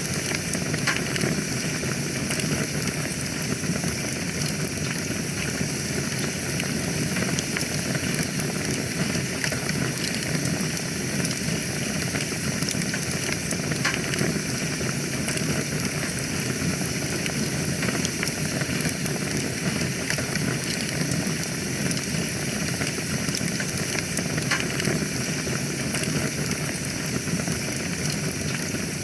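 Wood fire burning in a fireplace: a steady hiss with frequent small crackles and pops scattered throughout.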